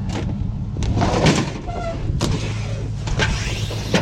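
Heavy scrap metal items knocking and scraping as they are set down and shifted, with a brief metallic ring near the middle, over the steady hum of an idling vehicle engine.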